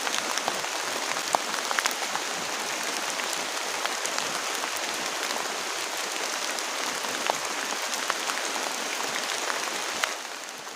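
Heavy rain falling steadily, a dense hiss of drops with many sharp individual drop ticks. It drops in level near the end.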